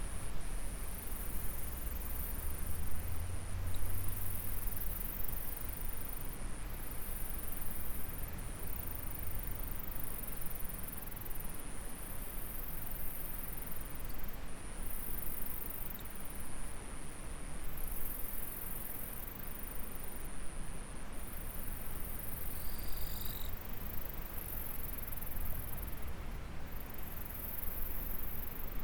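Insects trilling high and shrill in repeated bursts of a second or two, over the steady rush of a flowing stream. A short, falling chirp sounds about two-thirds of the way through.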